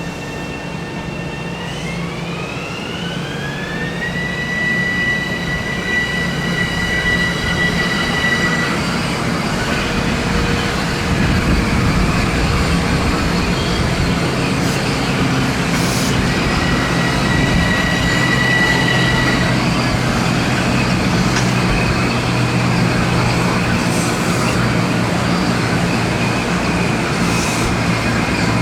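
Train passing close by, its rumble growing louder, with a high electric whine that glides up in pitch and holds steady for a few seconds, then returns briefly later on.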